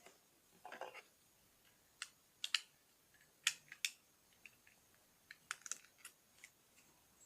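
Plastic Lego bricks clicking and snapping as they are handled and pressed together, with a short rustle of pieces near the start and a dozen or so irregular sharp clicks after it.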